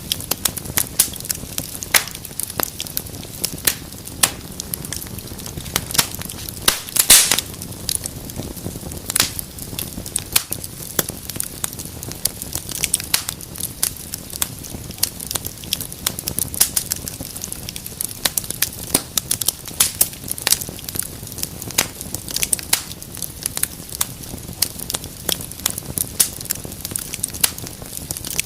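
Wood fire burning in a fireplace: steady crackling with irregular sharp pops over a low rush of flame, a loud cluster of pops about seven seconds in.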